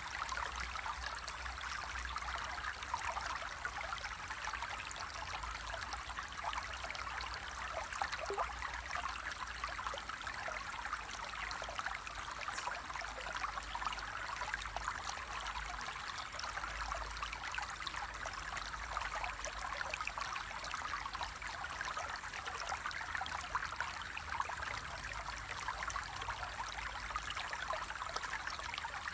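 Water flowing in a stream: a steady, even babble made up of many small splashes, with a low rumble underneath.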